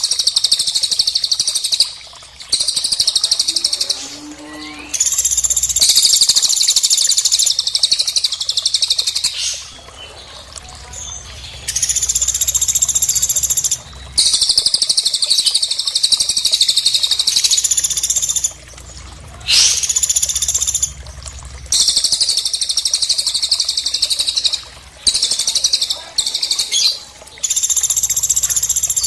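Bird trills from a masteran recording of cililin and pelatuk calls: dense, rapid, high-pitched rattling trills, repeated in bursts of one to four seconds with short breaks between them.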